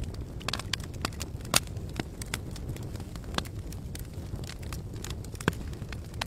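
Wood campfire crackling, with irregular sharp pops over a steady low rumble; the loudest pop comes about a second and a half in.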